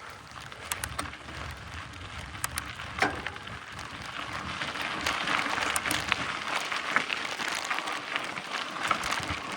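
Mountain bike riding over a dirt and gravel trail: tyres crackling and crunching, with scattered clicks and rattles. The crackle grows louder about halfway through.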